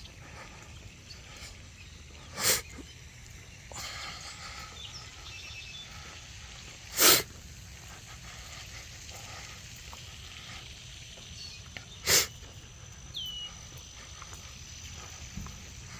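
Three short, loud puffs of breath or sniffs close to the microphone, about five seconds apart, over a faint steady outdoor background.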